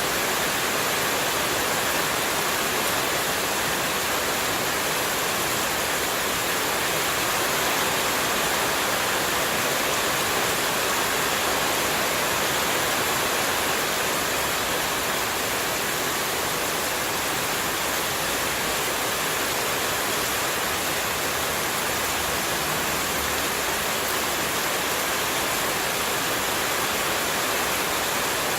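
Steady, unbroken rush of running water used as white noise, even and unchanging throughout.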